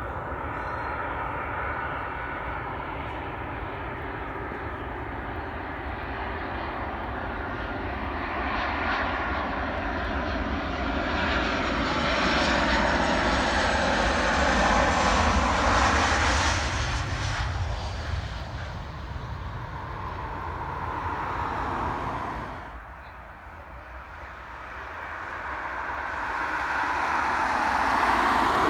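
Jet airliner engines passing close by: the noise builds to a loud peak about halfway through, then the whine falls in pitch as the aircraft moves away. The sound drops off sharply a little after twenty seconds and builds again near the end.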